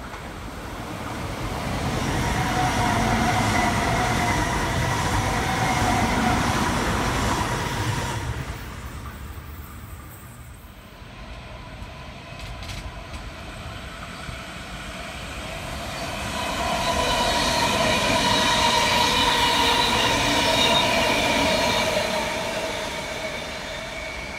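Electric double-deck suburban trains passing one after another on a multi-track line. Each pass builds to a run of rail noise with steady whining tones. There is a lull about ten seconds in, between the two passes.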